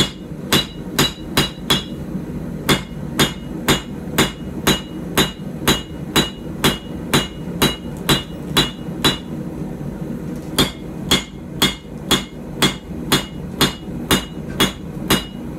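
Hand hammer striking hot steel on an anvil while forging out a puukko knife blade, about two blows a second, each with a short ring. The blows pause briefly a little past halfway, then resume. A steady low hum runs underneath.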